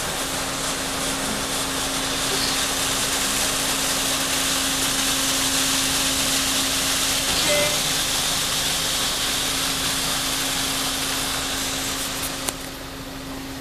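Automatic car wash spraying the car with high-pressure water, heard from inside the cabin as a steady, loud hiss over a faint hum. Near the end there is a click, and the spray thins and drops away.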